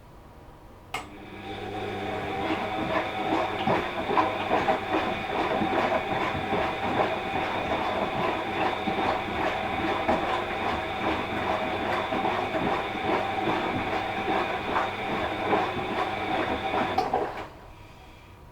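Washing machine drum turning during the wash: a click about a second in, then the motor runs for about sixteen seconds with a steady whine over the rumble of the tumbling load, and stops suddenly near the end, the pause between drum turns.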